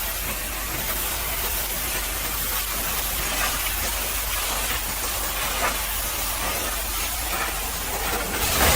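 High-pressure washer jet spraying onto a truck caked in frozen mud and ice: a steady hiss, louder for a moment near the end.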